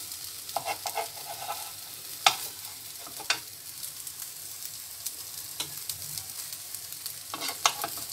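Corned beef and egg omelette patties sizzling steadily in oil in a nonstick frying pan, while a metal spoon scrapes and taps against the pan as it lifts a patty; a few sharp clicks stand out, the loudest about two and three seconds in.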